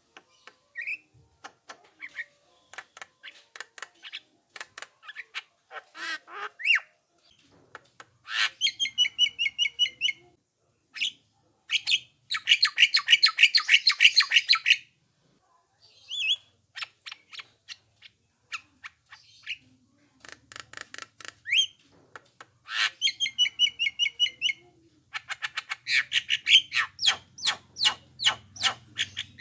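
Javan myna (jalak kebo) calling: rapid chattering runs of harsh, clicking notes in several loud bursts, broken by a few short upslurred whistles.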